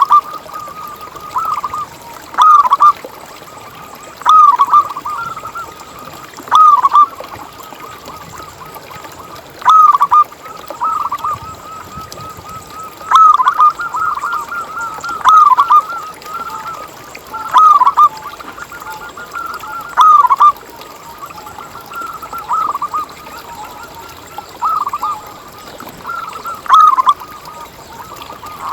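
Zebra doves (perkutut) cooing: loud, short cooing phrases repeat every two to three seconds, and fainter cooing at the same pitch carries on between them.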